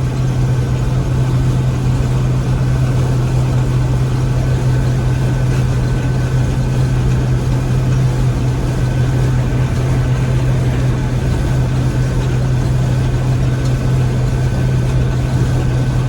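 Gleaner M3 combine running steadily: a constant low engine hum with a faint, even higher whine over it.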